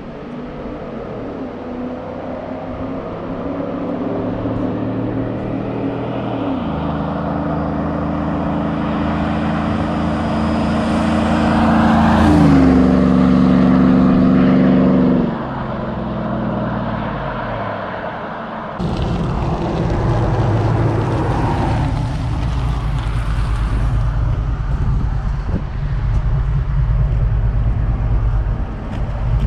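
Chevy 5.3L V8 exhaust through long-tube headers and a Borla XR-1 muffler: the engine pulls with its pitch stepping several times, growing louder to a peak about halfway through. After an abrupt change about nineteen seconds in, it runs with a low, rough rumble.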